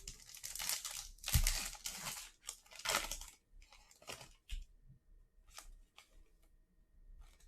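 A football trading card pack wrapper being torn open and crinkled in several rough rips over the first three seconds or so, followed by a few faint clicks as the cards are handled.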